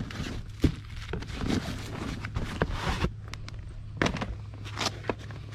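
Rummaging through a pile of household junk: scattered knocks, clatters and rustles as items and cords are pulled about, the sharpest knocks about half a second in and near four seconds in, over a steady low hum.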